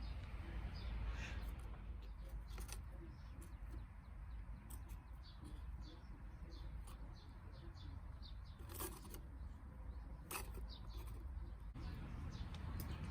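Wood campfire crackling, with small irregular snaps and two louder pops in the later part, over a steady low rumble.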